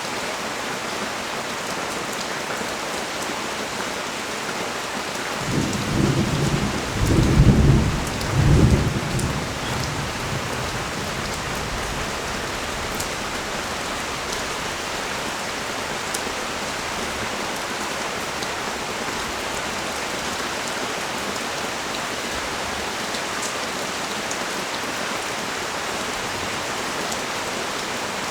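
Steady pouring rain, with a low roll of thunder about six seconds in that rumbles in three swells for around four seconds.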